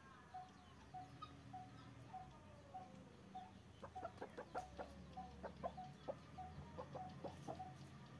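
Faint bird calls: a short, single-pitched note repeating about every half second, joined about halfway through by a run of sharp, clicking calls.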